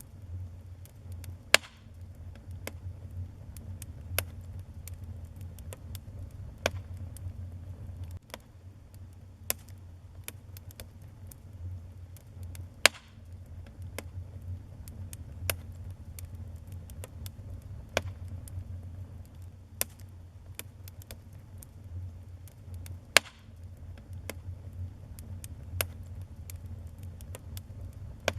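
Wood fire burning in a fireplace: irregular sharp crackles and pops, a few of them much louder snaps, over a steady low rumble.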